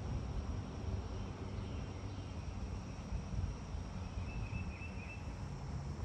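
Outdoor ambience: a steady low rumble with a thin, steady high tone above it, and a short warbling chirp about four seconds in.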